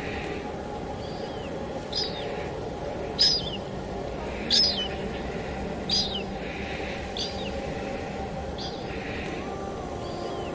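A bird repeating a short high chirp that falls in pitch, one a little more than a second apart, over a steady hiss of rain and a low steady hum.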